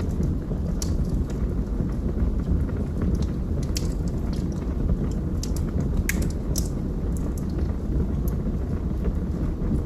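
Wood fire burning in a fireplace: a steady low rush with irregular sharp crackles and pops scattered through it.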